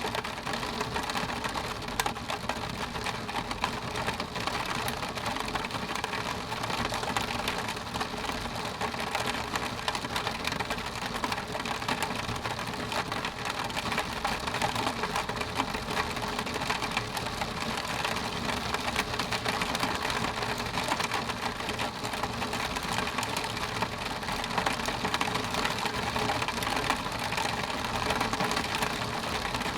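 Steady rain pattering on a window pane, a dense continuous patter of drops on glass.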